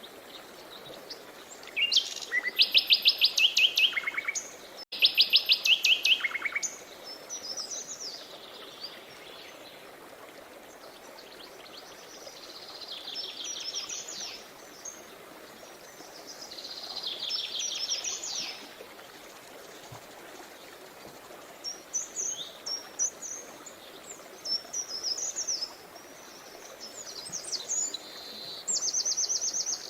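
Songbirds singing in rapid trilled phrases, the two loudest about two and five seconds in, with shorter chirps and trills through the rest, over a steady rush of running river water.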